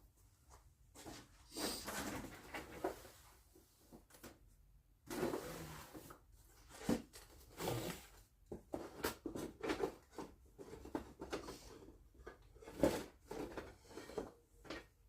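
Irregular knocks, clicks and short scraping sounds of wooden pieces and tools being handled on a workbench.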